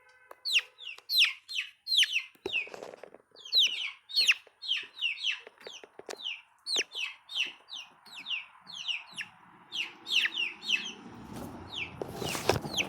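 Young chickens peeping over and over, short high notes that slide downward, two or three a second. A louder rustle comes near the end.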